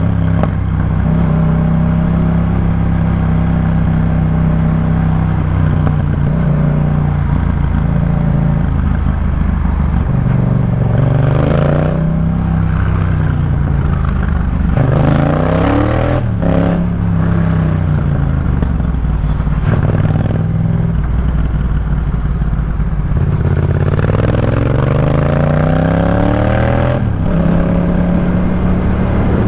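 Yamaha MT-07 parallel-twin engine through a Jeskap K4 full aftermarket exhaust, heard while riding. It runs steadily at first, then pulls up in rising revs that cut off sharply at gear changes, a few times around the middle and again near the end.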